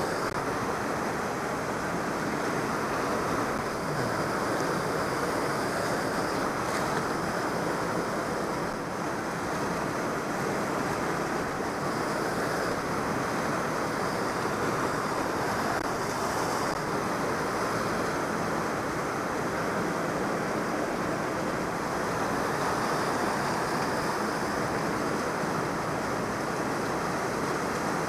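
Steady rushing of a fast glacial river and waterfall, an even unbroken wash of water noise.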